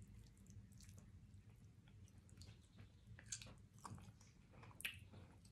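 Faint wet chewing and lip smacks of a person eating pork neck bones by hand, with scattered soft clicks, the sharpest about three and five seconds in, over a low room hum.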